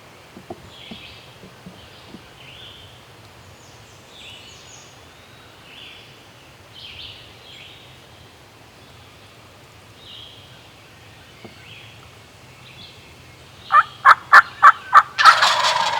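Wild turkey gobblers gobbling loud and close near the end: a quick run of about six sharp notes, then a full rattling gobble. Faint songbird chirps before it.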